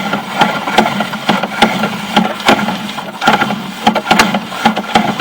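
Sewer inspection camera being reeled back out of a drain line: irregular clicks and knocks, a few each second, from the push cable and reel, over a steady low hum.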